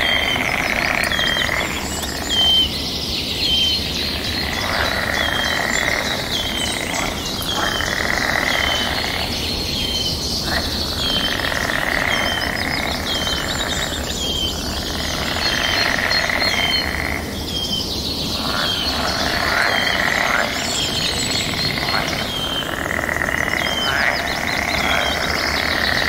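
Birds chirping: a short, sharp call repeated roughly once a second over a chorus of calls that swells and fades every three to four seconds.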